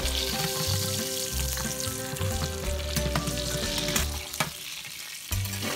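Breaded chicken breast frying in olive oil in a pan, a steady sizzle, with background music underneath.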